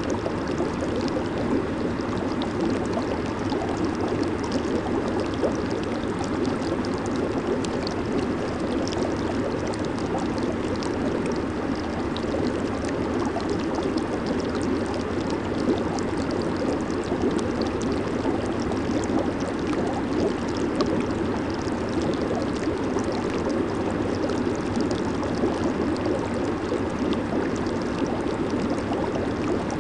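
Hot tub jets churning the water: a steady bubbling, rushing water noise with a constant fizz of bursting bubbles.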